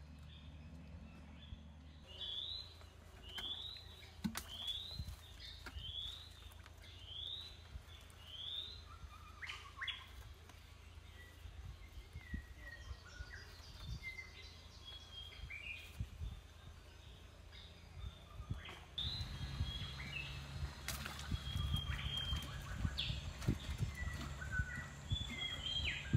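Birds calling: a run of short rising chirps, about one every 0.7 seconds, then a mix of shorter, varied calls. From about two-thirds of the way through, a louder low rumble joins the calls, with faint scattered clicks or knocks.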